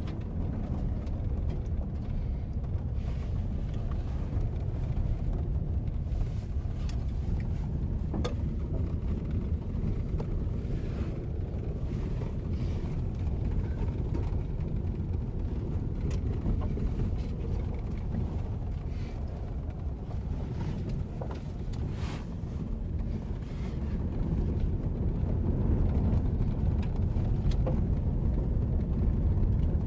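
Truck running, with a steady low rumble of engine and road noise that grows somewhat louder over the last few seconds.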